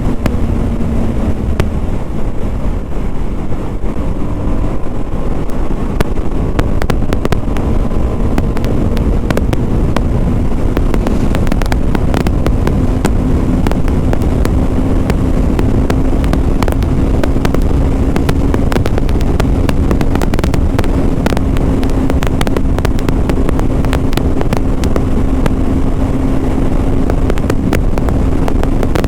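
BMW G 310 RR's single-cylinder engine under way at a steady cruise. Its note rises a little about a third of the way through and then holds. Wind buffets the helmet-mounted mic throughout.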